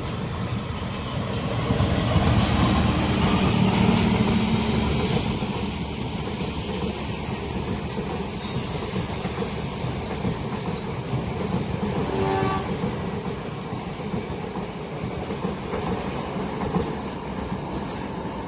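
A train passing close by, its carriages rumbling and clattering over the rails in a steady stream, loudest a few seconds in.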